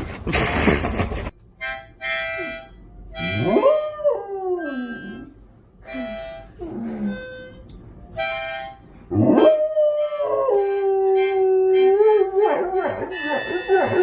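A harmonica played in short chords while a dog howls along, its howls gliding up and down and then holding one long note before wavering near the end.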